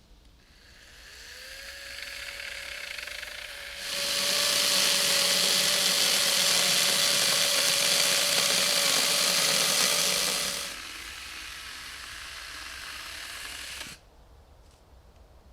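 A handheld power tool's motor spins up about a second in and runs at a steady pitch. It gets much louder and noisier for about seven seconds as it works into material, then runs on more quietly and cuts off suddenly near the end.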